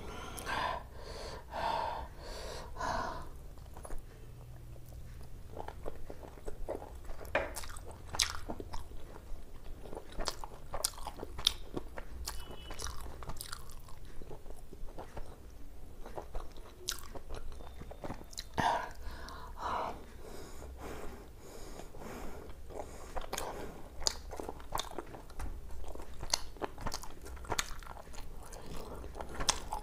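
A person chewing and biting food close to the microphone, with many short, sharp clicking mouth sounds.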